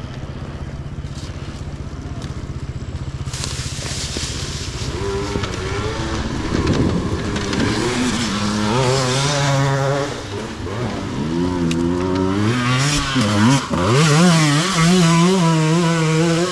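Dirt bike engine, running low and steady at first, then revving hard with its pitch repeatedly rising and falling and growing louder.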